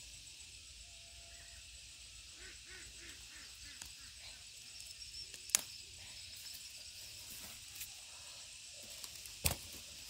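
A bird gives a short, quick series of about six calls about two and a half seconds in, over a steady high hiss. Two sharp knocks come, one near the middle and one near the end.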